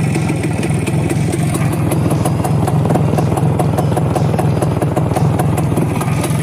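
Voskhod 3 motorcycle's single-cylinder two-stroke engine running steadily at idle, cold, just after a cold start.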